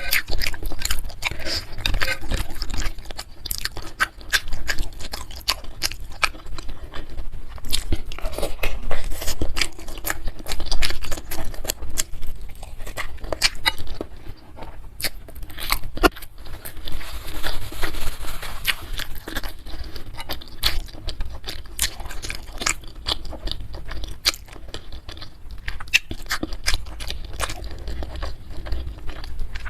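Close-miked mouth sounds of a person eating spicy bakso meatball soup with noodles and soft chicken feet: steady wet chewing and biting, a dense run of irregular clicks and smacks.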